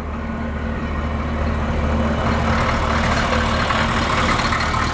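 1995 Chevy 1500's 6.5-litre turbo-diesel V8 idling steadily, growing gradually louder.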